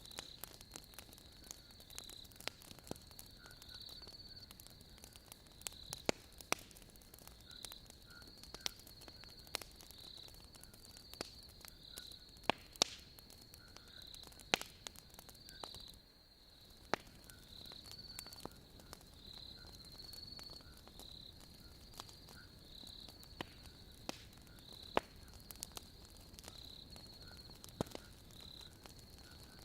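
Wood logs burning in a fireplace, crackling with frequent sharp pops, over a steady high trill of night insects that swells and fades about once a second.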